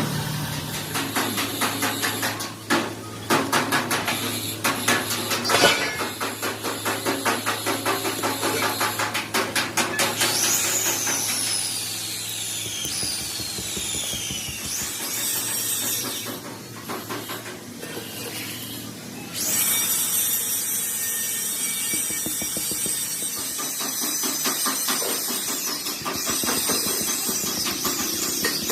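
Power tool running in a tyre-repair workshop, with rapid, evenly repeated strikes over a low steady hum. About ten seconds in come two high whines falling in pitch, like a motor spinning down.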